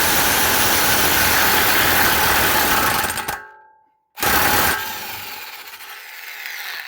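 Impact wrench on a 36 mm socket, hammering in one long run of about three seconds and then stopping. A short burst follows, then a lighter whirring that fades as the nut breaks loose and spins.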